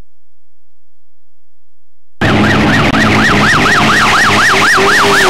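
A low hum, then about two seconds in a loud racing vehicle arrives with a siren yelping rapidly up and down over its running engine.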